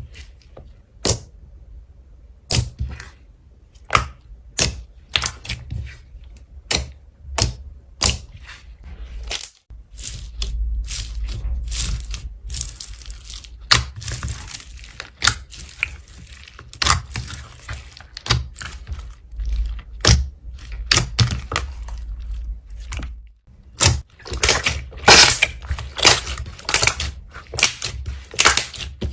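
Slime being worked by hand, giving a run of sharp, irregular clicking pops, with a stretch of denser squishing and crackling through the middle.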